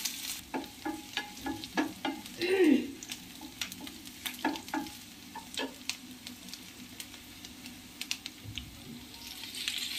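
Chopped onion and capsicum sizzling softly in oil in a nonstick pan while a wooden spatula stirs them, its taps and scrapes on the pan mostly in the first half.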